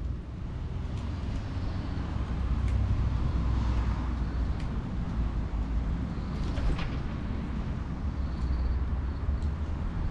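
Wood fire burning with a few sharp crackles and pops, over a steady low rumble that swells in the middle.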